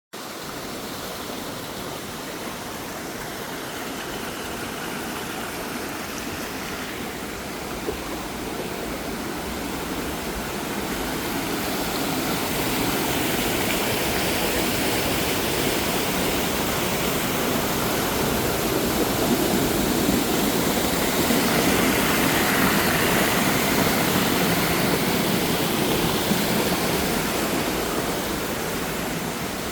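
Rushing water of a waterfall and mountain stream: a steady noise that grows louder about a third of the way in, is loudest in the latter half and eases a little near the end.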